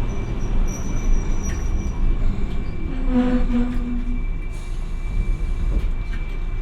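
Hiroden 700-series tram no. 701 running, with a steady low rumble of wheels on rail and running gear. A brief pitched tone sounds about three seconds in.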